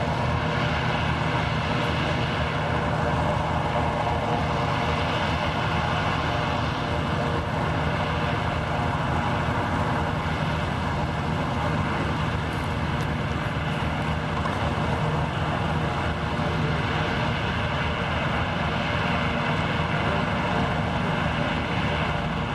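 An engine running steadily and fairly loudly, a constant drone with a steady high whine.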